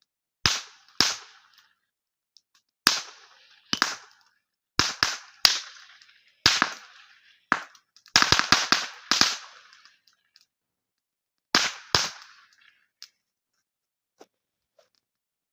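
Powder-actuated nail-gun blank cartridges going off in a campfire: about fifteen sharp, irregular bangs, several fired in quick succession around eight seconds in.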